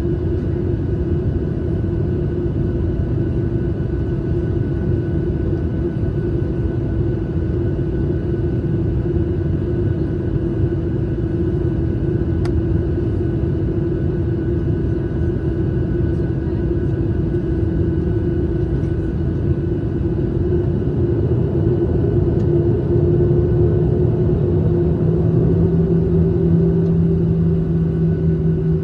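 Steady rumble and hum of a Boeing 737's jet engines heard inside the passenger cabin, with a second, lower steady tone coming in about 23 seconds in as the sound grows slightly louder.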